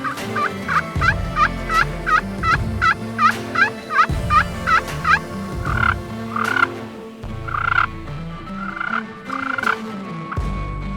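A turkey yelping: a fast run of about three yelps a second for some five seconds, then several longer, drawn-out notes. Music plays underneath.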